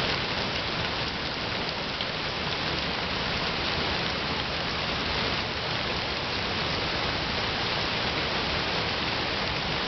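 Heavy thunderstorm rain pouring down, a steady, even hiss of downpour.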